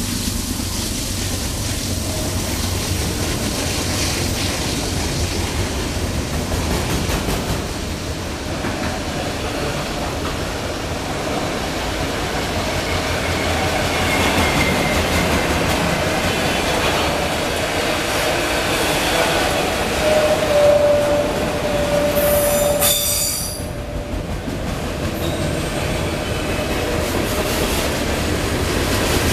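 A freight train's cars roll past at speed, with a steady rumble of steel wheels on the rails. Wheel squeal rings out in the second half, strongest about twenty seconds in, then cuts off abruptly about three seconds later.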